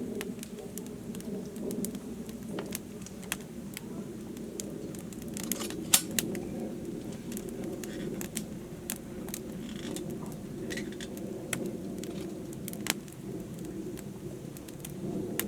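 Wood campfire crackling, with irregular sharp pops and snaps, the loudest pair about six seconds in, over a steady low background.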